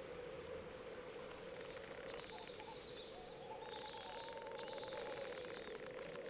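Faint bird chirps coming in about two seconds in, over a steady low drone.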